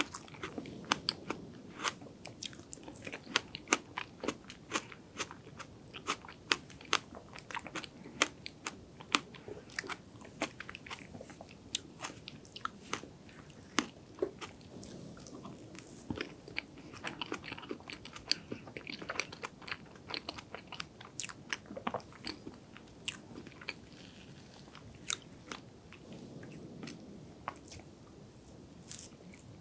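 Close-miked chewing and mouth sounds of someone eating soft chocolate cake with strawberries, with many sharp clicks and smacks scattered throughout.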